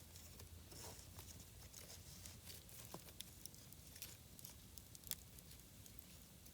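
Campfire burning with faint, scattered crackles and pops, the sharpest pop about five seconds in.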